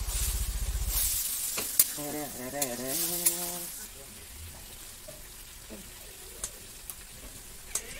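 Pork and potato pieces sizzling in a steel wok over a wood fire while a metal spatula stirs them, with sharp clinks of the spatula on the pan. The sizzle is strongest for the first three seconds or so, then drops back to a low hiss.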